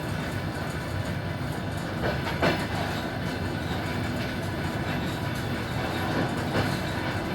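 Suburban passenger train rolling along the track: a steady rumble with wheels knocking over rail joints, the loudest knock about two and a half seconds in and another near the end.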